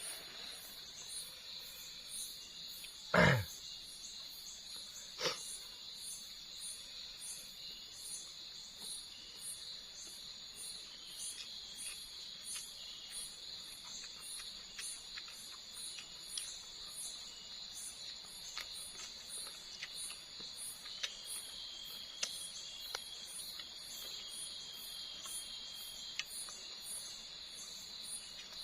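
Night insects in the forest: a steady high-pitched drone with a fast, even pulsing chirp above it. A sharp knock stands out about three seconds in, with a fainter one about two seconds later.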